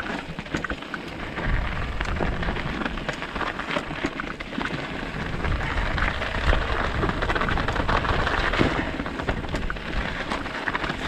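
Mountain bike riding down a rocky, gravelly track: tyres crunching over loose stones and the bike rattling with many small knocks, over a low wind rumble on the camera microphone.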